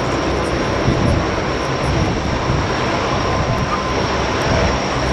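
Lockheed P-3C Orion's four Allison T56 turboprop engines running, a loud steady drone with a thin high whine over it.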